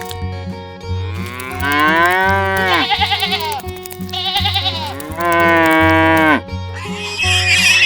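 Two long, drawn-out animal calls, each rising in pitch and then dropping away, over background music with a steady low beat.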